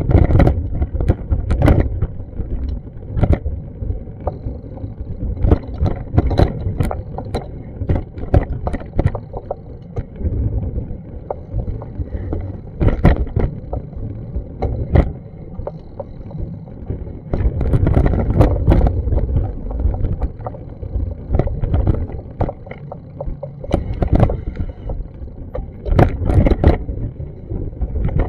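Wind buffeting an action camera's microphone, a fluctuating low rumble broken by irregular knocks and thumps.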